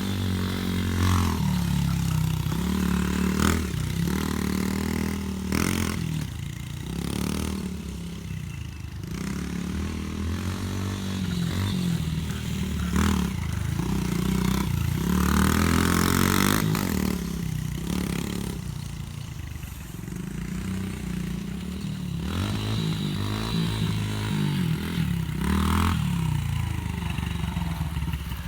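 Yamaha TT-R90 dirt bike's small single-cylinder four-stroke engine being ridden: it revs up and falls back again and again, every few seconds, as the rider works the throttle and gears. It grows louder and fainter as the bike moves about.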